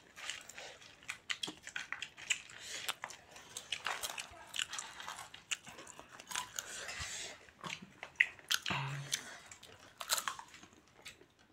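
A person chewing and biting food close to the microphone, with many short wet mouth clicks. A brief low vocal sound comes about nine seconds in.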